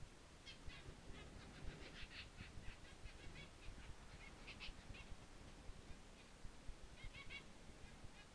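Faint, high chirping of a small bird, in short quick runs, over a low rumble.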